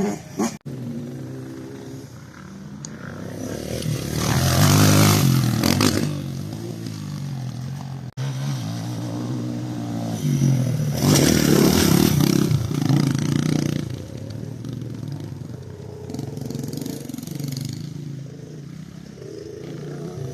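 125 cc motorcycle engine revving as it is ridden, rising and falling in pitch, with two loud surges about four and eleven seconds in.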